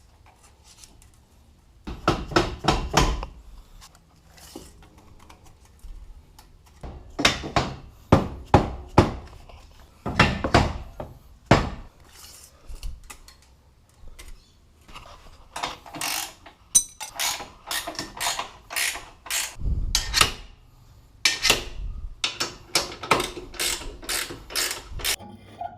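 Hand ratchet wrench working the nuts on a boat trailer's axle U-bolts, clicking in quick runs of strokes with short pauses between them.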